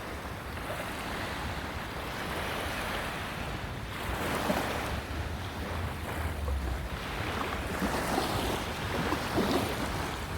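Ocean waves breaking and washing on the shore, swelling and easing every few seconds, with wind rumbling on the microphone.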